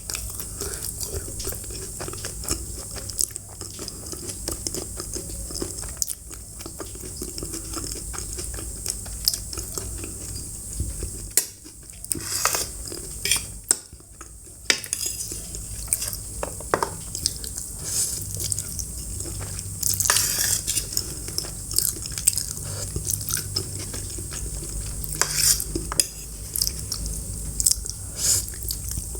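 Cutlery clinking and scraping against a dish, with close-miked chewing of food in between: many short sharp clicks.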